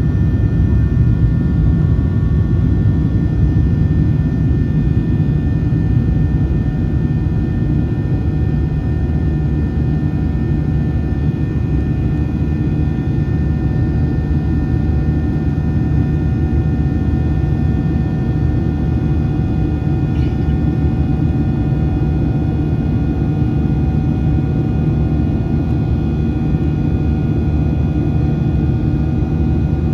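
Steady cabin noise inside a Boeing 737-800: the low rumble of the CFM56-7B jet engines and airflow, with several steady whining tones above it. A faint tick sounds about twenty seconds in.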